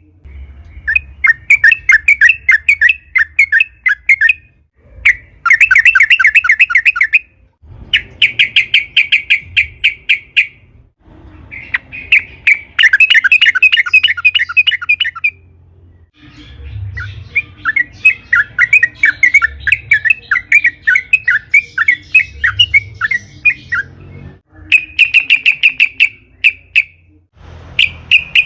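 Yellow-vented bulbul (trucukan) singing in loud bouts of fast, repeated notes. There are about seven bouts, each lasting a few seconds, with short pauses between them; a longer, softer run fills the second half.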